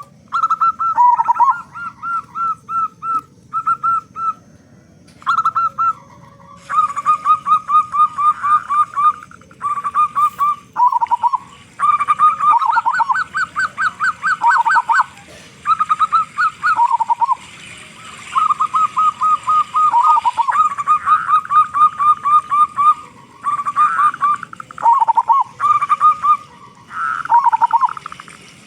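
Zebra doves (perkutut) cooing: phrases of rapid, repeated high coo notes, each run ending in a lower drawn-out note, separated by short pauses.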